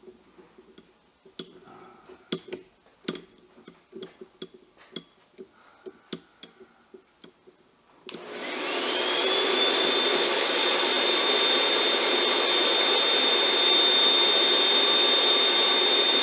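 A few light clicks and knocks, then about halfway through a 1500-watt snow machine's blower starts up with a sudden rush and a whine that rises to a steady high pitch over a couple of seconds, then runs steadily and loudly. It is set to its minimum setting, the gentler snow output.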